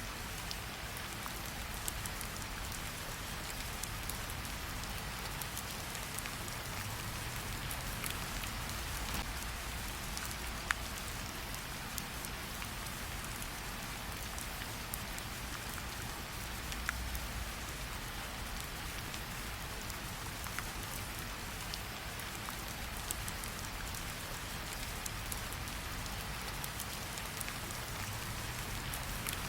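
Steady rain falling, with a few sharp crackling pops from a campfire now and then.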